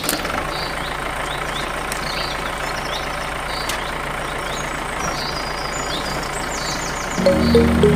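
Steady running noise of a small DIY mini tractor's motor, with birds chirping faintly. Background music comes back in near the end.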